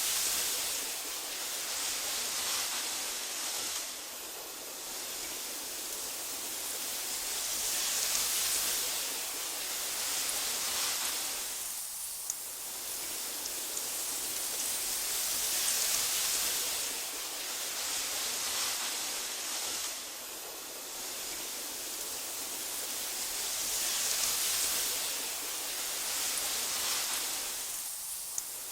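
Wind blowing through tall meadow grass: a steady soft hiss that swells and eases, dipping briefly about every eight seconds.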